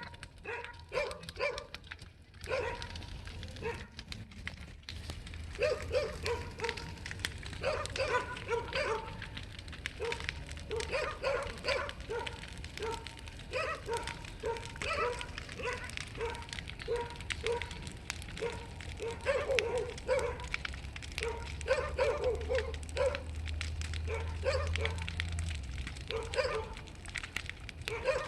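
A dog barking over and over in short repeated barks, with the steady crackle of a large bonfire behind it.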